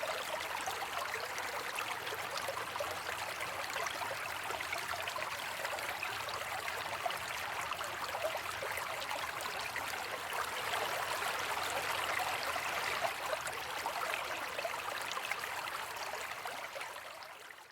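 Steady rain falling, a dense patter of drops, fading out near the end.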